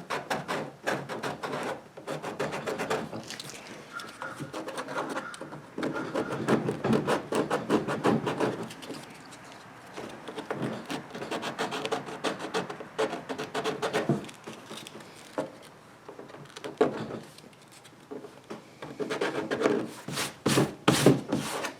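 Abrasive roughing of the plastic lip of a freshly cut rod-holder hole in a kayak hull, in runs of rapid back-and-forth rasping strokes with a few short pauses. The rubbing scuffs the surface so the adhesive will grip.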